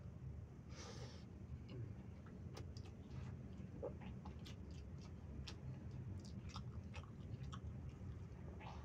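Close-miked chewing of a mouthful of yellow rice, with scattered moist mouth clicks. A steady low hum runs underneath.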